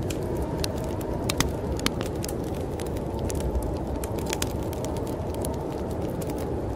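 Wood fire crackling in a fireplace, with irregular sharp pops and snaps, over a steady low rush of snowstorm wind.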